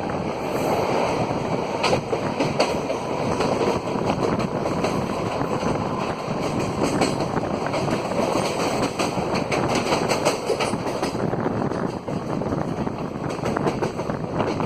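Train running on the track: a steady noise of wheels on rails with irregular clicks of the wheels over rail joints.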